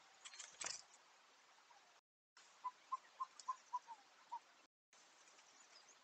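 A short burst of rustling and clicks near the start. After a cut, a bird calls seven short, evenly spaced pitched notes.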